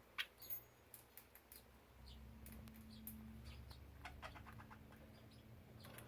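Budgies chirping faintly, with scattered small clicks and a quick run of about half a dozen clicks about four seconds in.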